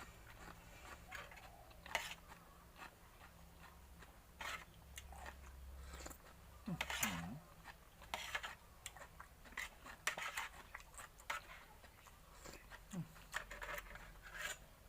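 Close-up chewing and wet mouth noises of someone eating raw shrimp in spicy papaya salad, with irregular crunches and smacks. A short hummed voice sound comes about seven seconds in and again near the end.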